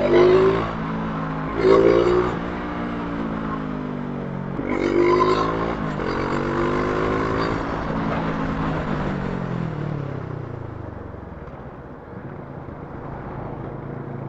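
Brixton Crossfire 500's parallel-twin engine pulling on the road: three loud throttle surges, at the start, about two seconds and about five seconds in, each rising in pitch. From about eight seconds the engine note falls away as the bike slows, then settles to a steady lower note near the end.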